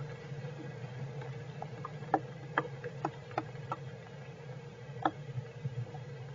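Irregular sharp ticks and taps, about a dozen clustered over a few seconds, over a steady low hum.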